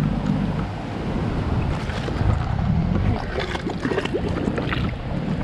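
Canal water splashing and lapping around the board, with short splashes about midway, over a low motor rumble from a nearby canal boat and wind on the microphone.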